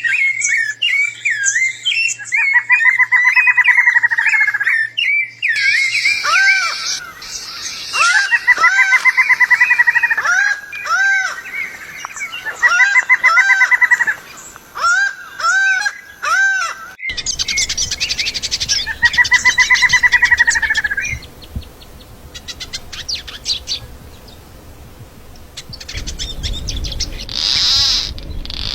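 Songbirds singing: repeated short, rapid trills and arched whistled notes, phrase after phrase. About two-thirds of the way through the sound cuts abruptly to fainter, scattered high calls over a background hiss, with a louder call and a low rumble near the end.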